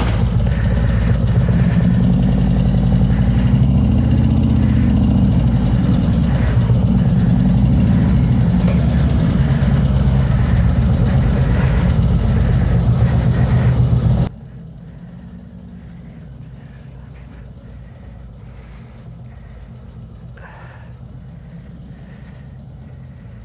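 Harley-Davidson Road King's V-twin engine running loud and steady. About fourteen seconds in, the sound drops abruptly to a much quieter, steady low engine rumble.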